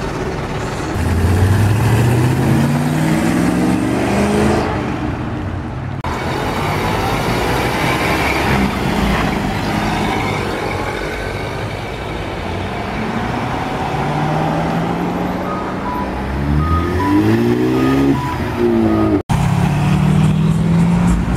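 Car engines accelerating away on a street, their pitch climbing as they rev up. One car pulls away about a second in, and another rises steeply in the last few seconds before an abrupt cut to a different engine running.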